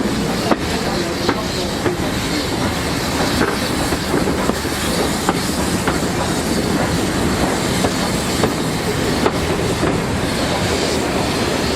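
Steam-hauled heritage passenger train rolling along the track: a steady rumble with irregularly spaced clicks of the wheels passing over rail joints.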